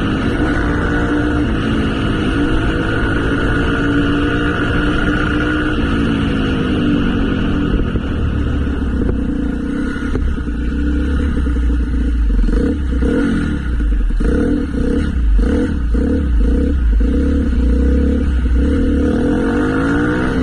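Motorcycle engine running under way, its revs rising and falling, with a heavier low rumble and pulsing throttle changes in the second half.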